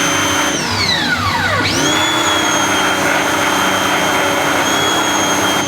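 Pressure washer motor running with a steady whine. About half a second in it winds down in pitch, spins back up to speed within about a second, and begins winding down again at the end.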